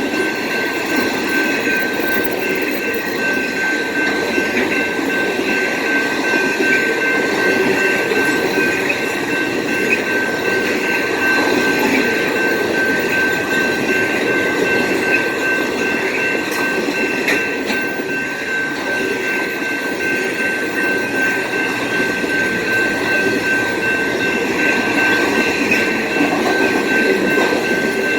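BNSF freight train rolling past on the track with a continuous rumble and rattle of wheels on rail, and a steady high-pitched squeal over it.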